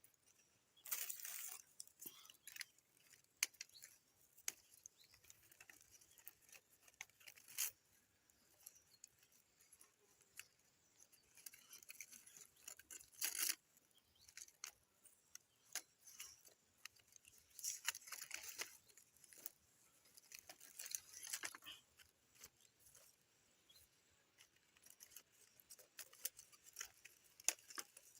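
Faint, irregular rustling, crackling and clicking, as materials are handled close to the microphone, with louder bursts of rustling about a second in, around thirteen seconds in, and again between about seventeen and twenty-two seconds.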